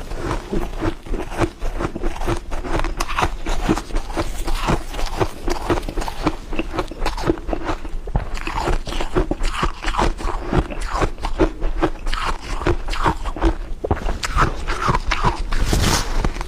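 Ice being bitten and chewed, with a continuous run of dense, irregular crunches.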